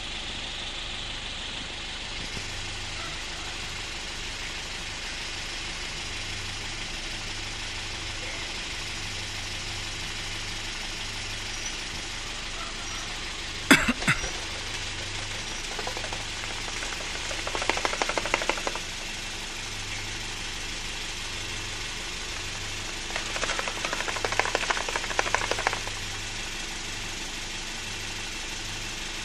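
Toyota Yaris engine idling steadily with a low, even pulse. A sharp click sounds about halfway through, and two louder rattling stretches of a few seconds each follow.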